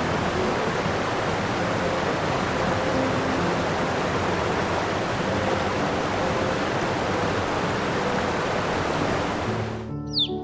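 Steady rushing noise like flowing water, with faint background music under it; the rush fades out just before the end.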